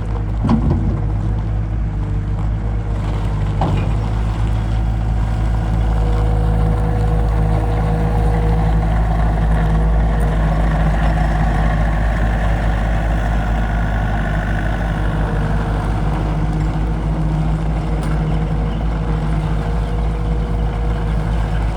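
Gehl CTL 60 compact track loader's diesel engine running steadily, a little louder through the middle.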